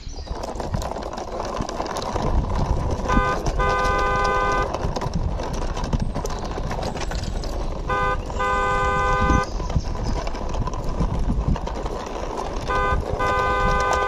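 Plastic toy car wheels rolling and scraping over rough stone as it is pushed by hand. Over this a car horn toots three times, about five seconds apart, each a short toot followed by a longer one.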